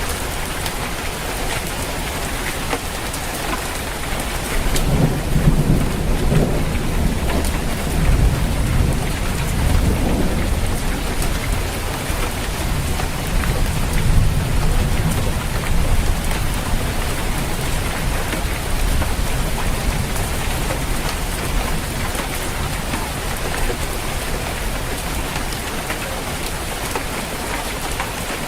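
Steady rain drumming on a roof, with many fine drop ticks, and a low rolling rumble of thunder that swells from about five seconds in and fades out by about sixteen seconds.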